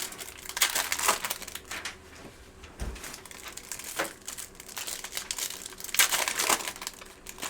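Crinkling and crackling of trading-card pack wrappers and packaging being handled and torn open, in irregular bursts, loudest about a second in and again near six seconds in.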